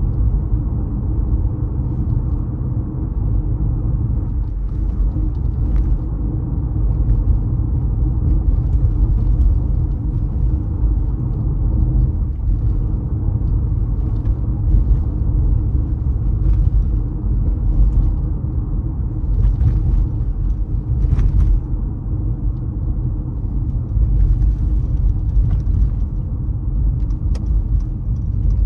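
Car driving: a steady low rumble of road, tyre and engine noise, with a few faint clicks scattered through it.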